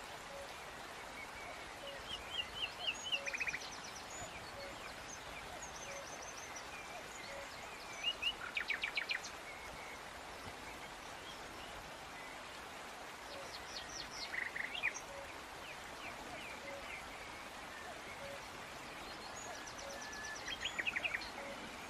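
Birds chirping in four short bursts of rapid trilled notes, spread a few seconds apart over a steady background hiss.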